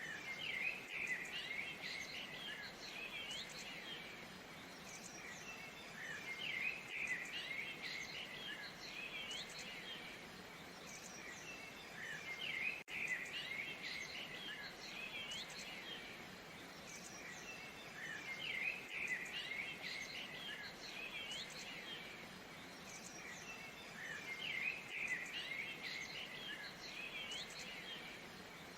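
Waterfall, a steady soft rush of falling water, with birds chirping over it in bursts that recur about every six seconds. A brief dropout about thirteen seconds in.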